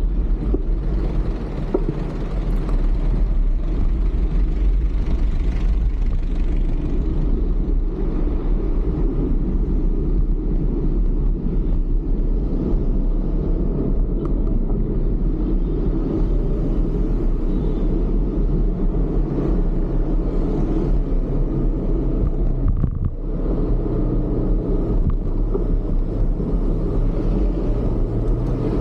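Steady low rumble of wind on the microphone and road noise while riding a bicycle through traffic.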